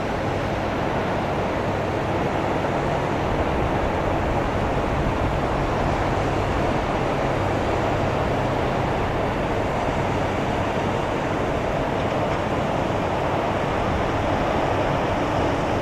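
Steady rushing noise of an Airbus A319-111's CFM56 jet engines, even in level throughout.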